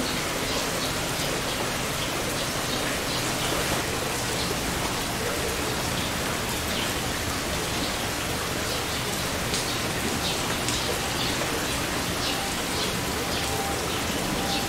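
Heavy rain falling steadily, a dense even hiss with scattered sharp drops tapping on surfaces.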